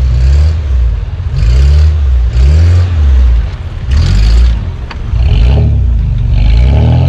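Off-road vehicle engine revving up and easing off about five times in quick succession, then holding a steadier note near the end.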